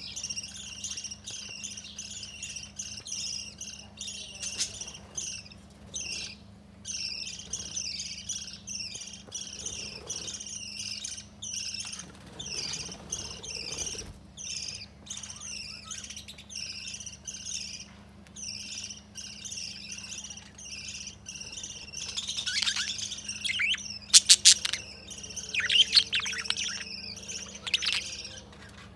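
Small pet parrots, budgies and lovebirds, chirping nonstop in short calls repeated several times a second. In the last quarter the calls grow louder and harsher, with a quick run of sharp squawks. A faint steady hum runs underneath.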